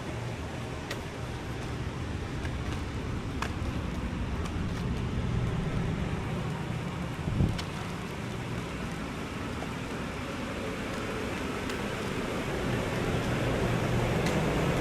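Steady low rumble of road traffic, with a single short thump about halfway through.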